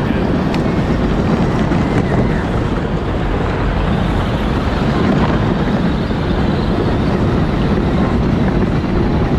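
Power Wheels ride-on toy vehicle being driven, heard from on board as a steady, loud rumbling noise with no clear engine tone.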